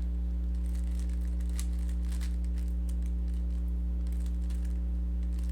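Faint, irregular clicks of a Rubik's cube being turned through algorithm moves, over a steady low electrical hum.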